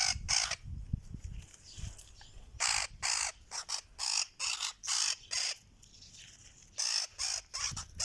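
Golden-tailed woodpecker giving short, harsh squawking calls in quick runs, with a pause around six seconds in.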